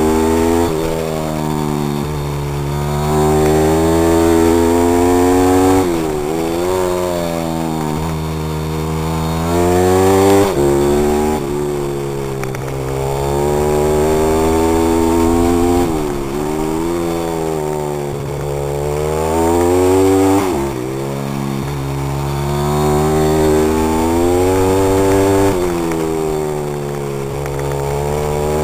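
Pit bike engine revving up and falling back again and again, its pitch climbing and then dropping every few seconds as the throttle is opened and closed.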